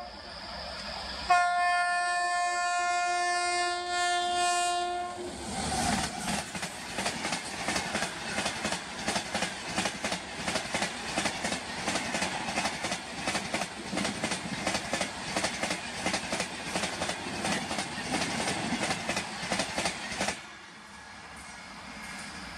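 A passenger express train's horn sounds one long blast, then the train passes at high speed, its coach wheels clattering rapidly over the rail joints. The clatter drops away abruptly near the end.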